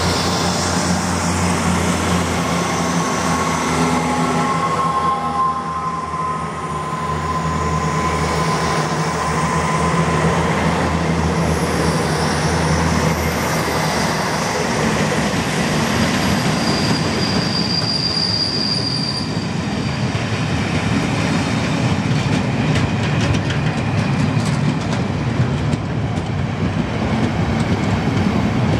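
A Class 73 electro-diesel locomotive hauling a Network Rail test train passes close by: a steady low hum from the leading locomotive for the first half, then the rapid rattle and clatter of the coaches' wheels on the rails as they go by. A few thin high tones come and go along the way.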